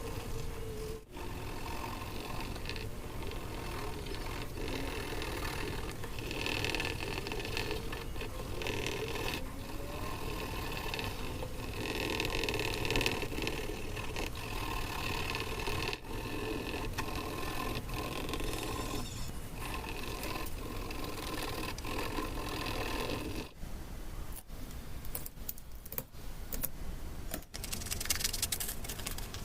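Paper being handled and rubbed: a continuous scraping, rustling sound for most of the stretch, then a run of light taps and crinkles over the last several seconds.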